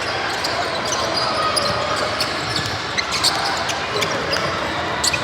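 Basketball game in a gym: a basketball bouncing on the hardwood floor, with sharp knocks clustered about three seconds in, over a steady murmur of voices.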